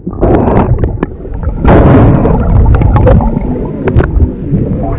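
Wind on the microphone and rushing, splashing water on a moving boat, with a steady low rumble and a few sharp knocks. There are louder gusts or splashes just after the start and near the two-second mark.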